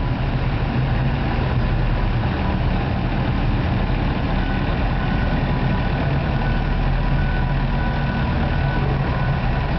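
Case wheel loader's diesel engine running steadily at a constant speed.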